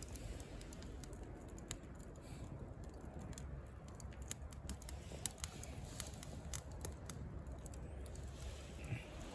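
Wood campfire crackling: irregular sharp pops and clicks, a few a second, over a low steady rumble.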